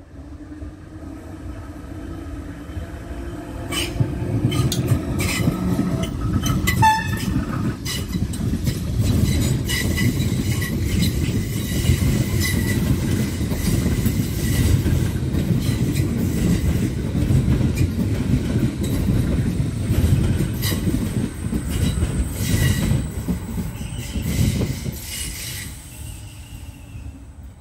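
A DART electric commuter train passing close by. The rumble builds as it approaches, then comes a long run of wheel clicks and clatter over the rail joints as the carriages go past, fading as it pulls away near the end.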